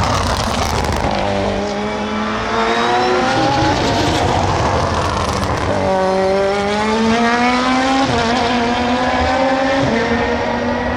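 Super GT race car engines at full throttle, the engine note climbing as the cars accelerate, with upshifts cutting the pitch back down twice near the end.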